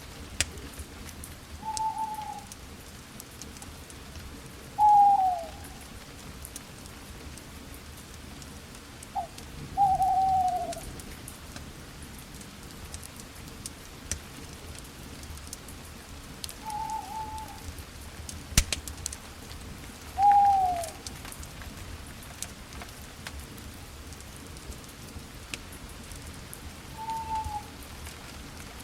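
Campfire crackling steadily with scattered sharp pops. An owl hoots about seven times over it in short, falling notes a few seconds apart, louder than the fire.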